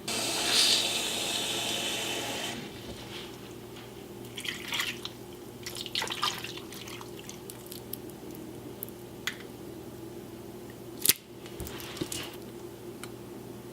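Liquid running or pouring for about two and a half seconds, starting and stopping abruptly. Then scattered light clicks and clatter of kitchen handling, with one sharp knock about eleven seconds in.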